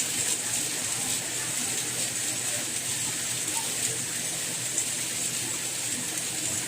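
Steady rain falling, an even hiss strongest in the high range, with one slightly louder drop about five seconds in.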